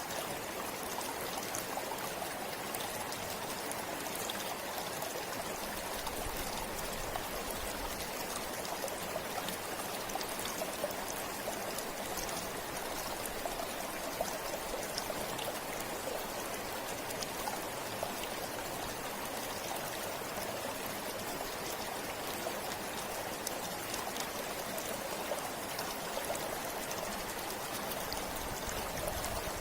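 Shallow river or stream flowing steadily over stones, a continuous rushing and splashing with fine droplet-like patter.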